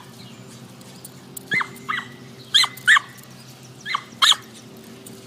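A dog barking in short, high yips that come in pairs, three pairs about a second apart.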